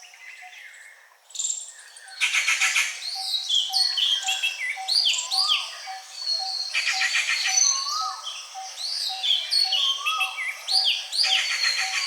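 Many birds calling together in dry forest: overlapping curved chirps and whistles over a low single note repeated steadily about twice a second, with buzzing, insect-like bursts about a second long breaking in three times. The chorus comes in fully about two seconds in, after a quieter start.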